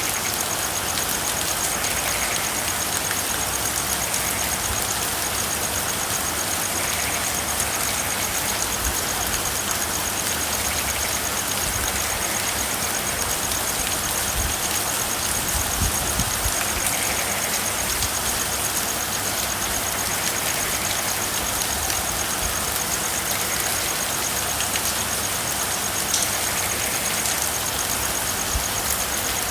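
Steady rain, an even hiss with irregular soft low thuds of drops. Faint frog calls repeat every couple of seconds under the rain, over a thin steady high-pitched trill.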